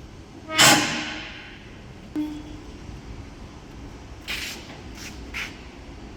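A loud metal clang with a ringing decay about half a second in, then a lighter metallic knock about two seconds in, and a few short scraping hisses near the end: steel parts of a truck's cargo body being worked on during repair.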